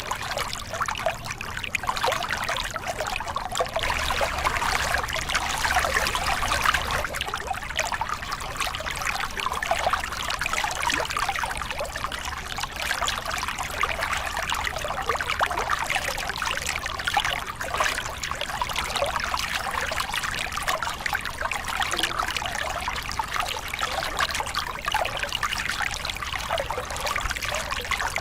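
Small river cascade: water pouring and splashing over rocks in a steady, dense rush, with fine bubbling and trickling detail.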